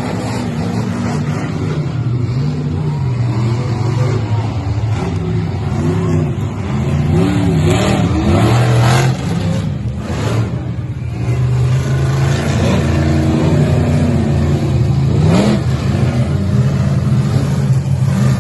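Monster truck engine running loud, with a steady deep drone underneath and repeated revs that rise and fall in pitch.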